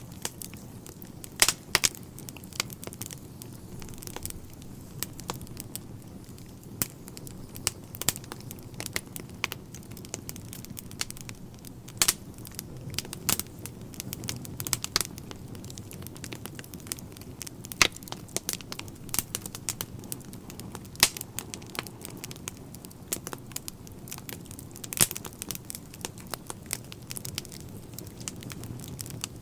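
Wood fire burning in a fireplace, the logs crackling and popping in sharp, irregular snaps over a steady low rumble.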